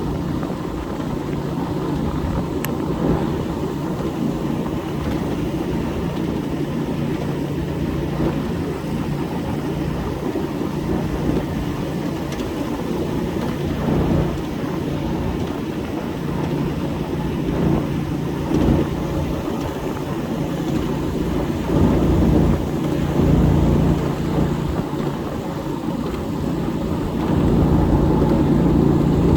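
Ride-on 7.5-inch gauge miniature train rolling along its track: a continuous low rumble of wheels on rail with a steady hum underneath, swelling a little several times.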